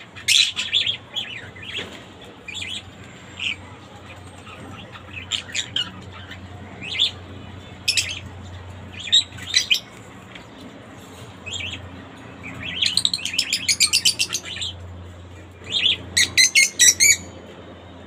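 A bird chirping: short, high, sharp calls come singly and in pairs, then in two quick rapid runs about thirteen and sixteen seconds in.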